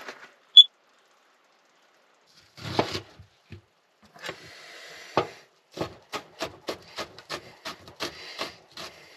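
A kitchen knife chopping cilantro on a cutting board. First come a few scattered knocks and rustles, then steady chops at about three a second. Just after the start there is one brief, high-pitched beep, the loudest sound here.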